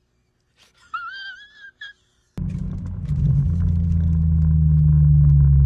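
A short warbling high-pitched tone sounds about a second in. Then, a little past halfway, a car engine cuts in with a steady low drone that grows louder about a second later and holds, as when a car is idling or staging at the drag strip.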